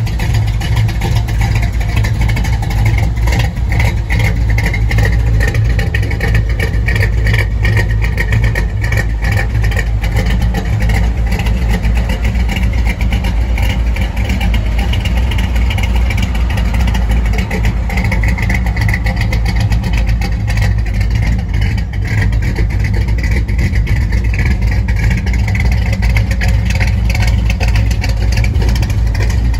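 1955 Chevrolet's engine idling steadily.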